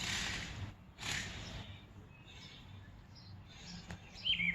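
Two short rustling noises about a second apart, then quieter; near the end a young grounded bird starts chirping again.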